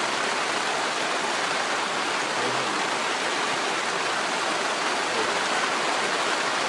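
Heavy rain falling, a loud, steady, even hiss.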